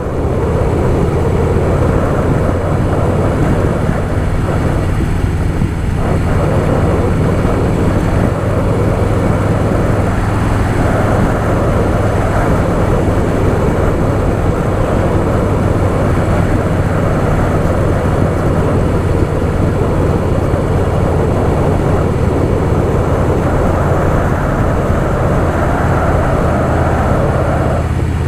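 Harley-Davidson Softail Fat Boy's V-twin engine running steadily at cruising speed, mixed with heavy wind rush over the mic.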